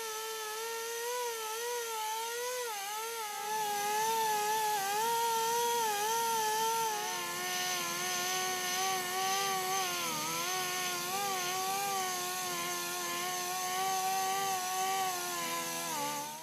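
Hand-held rotary power tool whining steadily while cleaning the bottom of a ship's main-engine cylinder cover. Its pitch wavers and sags as it is pressed to the metal, dropping to a lower pitch about halfway through, with a rasping hiss from about three seconds in. It cuts off suddenly at the end.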